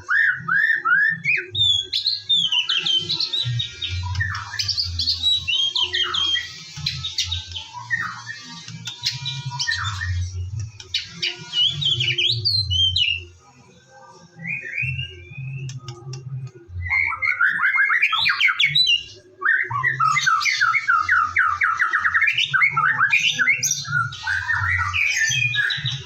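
White-rumped shama singing a long, varied song of rapid whistles and harsh chattering phrases, dropping away briefly about halfway through before starting again with fast repeated notes. A low pulsing hum runs underneath.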